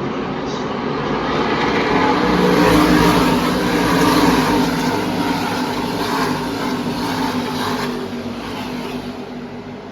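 NASCAR Camping World Truck Series race trucks' V8 engines running at speed as the field passes, the sound swelling to a peak about three to four seconds in and then fading away.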